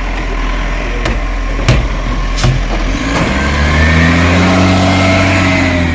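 Motor vehicle engine running with a few sharp clicks in the first half. About three seconds in, the engine note rises and is held as the vehicle accelerates, then eases off near the end.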